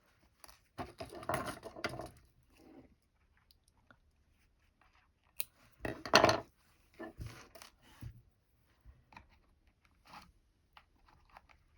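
Close handling noises: rustling, crunching and small clicks of embroidery threads and sewing things being picked through, in irregular short bursts with the loudest about halfway through.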